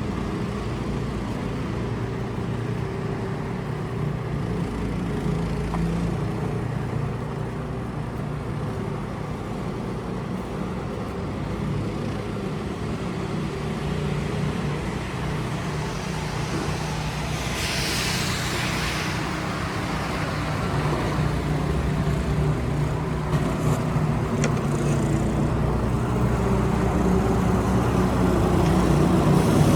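City street traffic: a motor vehicle's engine running steadily, with a hiss about eighteen seconds in and the traffic growing louder toward the end.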